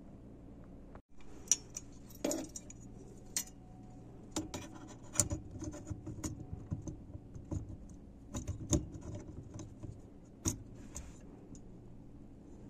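A string of irregular light clicks and metallic clinks, like small metal parts or tools being handled, with the sharpest strikes about a second and a half, five, eight and a half and ten and a half seconds in.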